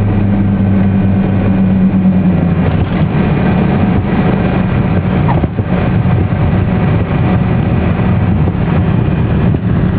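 Twin-engine Cessna's piston engines and propellers droning, as heard from inside the cabin during landing. The drone's pitch eases lower about two seconds in, then continues as a rougher, less even rumble.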